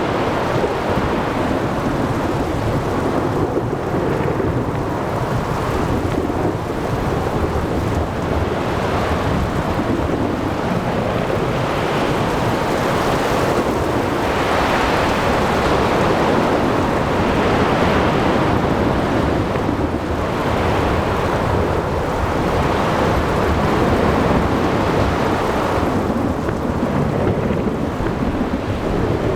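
Thunderstorm: steady heavy rain with thunder rumbling low underneath, swelling a little in the middle.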